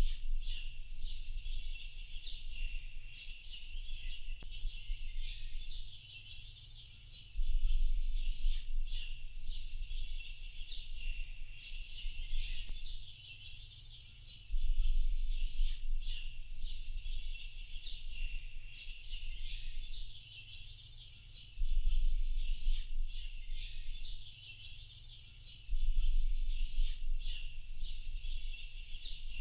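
Chorus of small songbirds, many short chirps and trills overlapping without a break. A low rumble swells in and fades out in stretches of several seconds, about every seven seconds, and is the loudest part when it comes.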